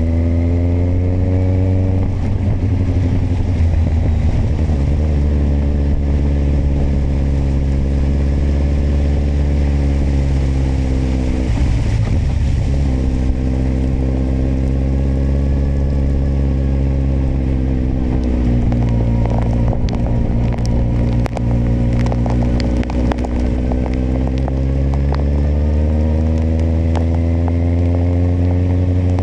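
Kawasaki motorcycle engine running under way, its note rising and falling several times with the throttle, with a brief rougher stretch near the middle. Scattered sharp clicks come over it for several seconds in the second half.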